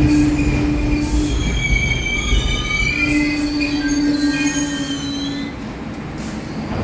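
New York City Subway 1 train rumbling through the station, its wheels squealing in several high, wavering tones for a few seconds in the middle, over a steady low hum. The rumble eases off toward the end.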